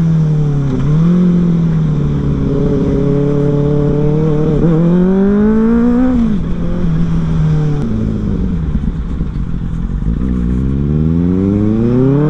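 Benelli motorcycle with a modified loud exhaust accelerating hard on the road. The engine note climbs, drops back about six seconds in, and climbs steadily again in the last few seconds.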